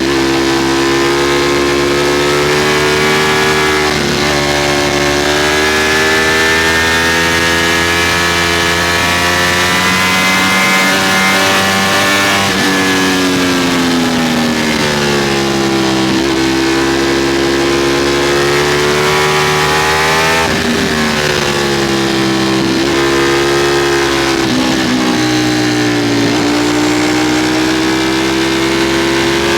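Ducati Streetfighter V4's V4 engine at high revs on a fast ride, its pitch climbing under throttle and dropping back several times as the rider shifts or eases off.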